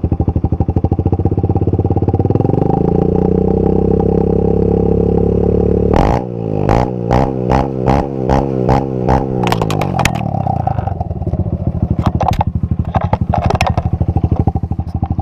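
Honda CRF125F single-cylinder four-stroke dirt bike engine revved up and held at high revs. After the throttle is closed, the revs fall and a rapid string of sharp exhaust backfire pops follows, then a few scattered pops as it settles back down.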